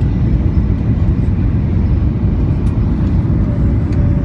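Steady low roar of engine and airflow noise heard inside the cabin of a Boeing 737-800 airliner in flight.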